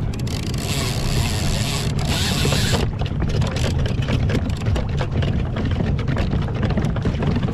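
Steady low rumble of wind and water on the microphone, out on open water. A loud hiss runs over it for the first three seconds, then stops, and a run of small clicks and knocks follows.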